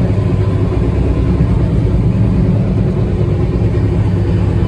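Passenger train, a steady low rumble with a constant hum.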